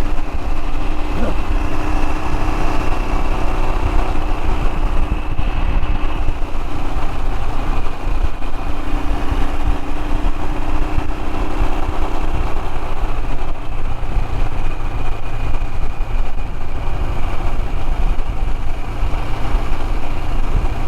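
Royal Enfield Himalayan's single-cylinder engine running steadily as the motorcycle is ridden along a lane, heard with a continuous low rumble of road and wind noise.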